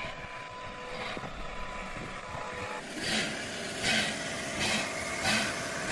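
Steam locomotive working: a low rumble, then from about halfway a regular exhaust chuff about every 0.7 s, each a sharp hissing beat.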